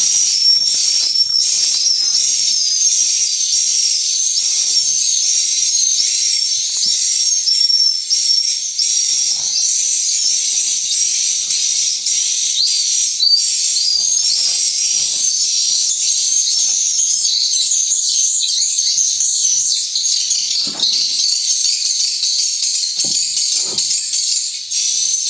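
Dense, unbroken chorus of high-pitched swiftlet chirps and twitters inside a swiftlet house, with faint scrapes and knocks underneath that grow stronger near the end.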